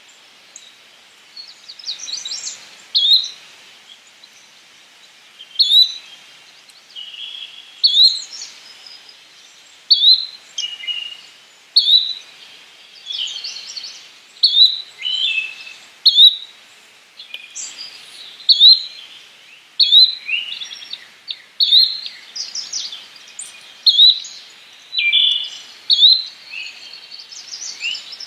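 Yellow-bellied flycatcher calling: a short, sharp call repeated about every two seconds, with softer chirps of other birds between the calls.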